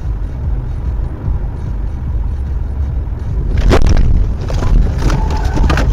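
Steady low road and engine rumble of a moving car, heard from inside. From about three and a half seconds in comes a series of sharp knocks and bangs.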